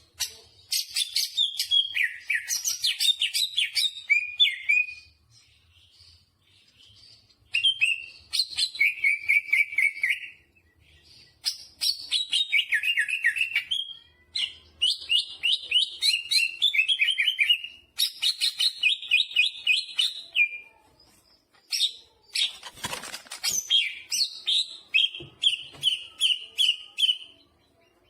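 Green leafbird (cucak hijau) singing loudly in about six phrases of rapid repeated chirping notes with short pauses between them, its song filled with imitations of another bird (jamtrok). A brief rustle sounds about two-thirds of the way through.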